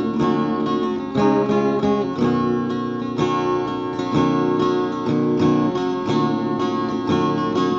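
Acoustic guitar music: plucked notes and chords in a steady rhythm.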